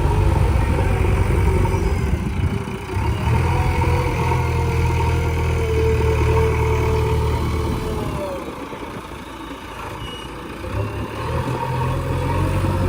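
Heavy diesel machinery engine running with a steady low hum. It fades about eight seconds in and comes back strongly a few seconds later.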